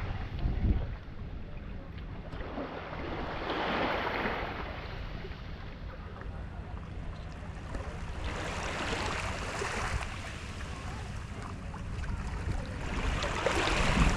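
Sea water surging and washing in slow swells about every four to five seconds, with wind buffeting the microphone and a steady low rumble underneath.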